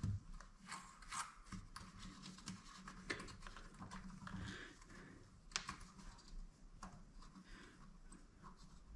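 Faint, irregular light clicks and taps, a few each second, over a low hum in a small room.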